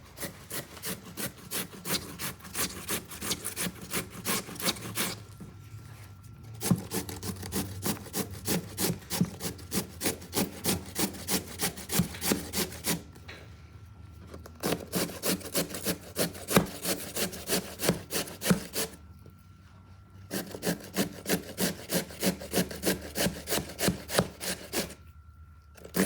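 Raw potato being grated by hand: rhythmic scraping strokes, about two or three a second, in four runs with short pauses between them.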